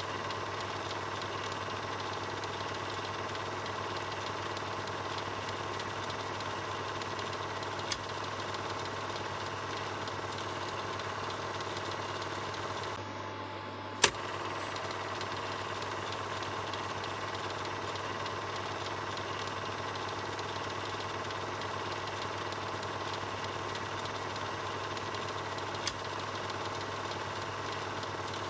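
Film projector running steadily, a mechanical whirr with a low hum. A few sharp clicks sound over it, the loudest about halfway through.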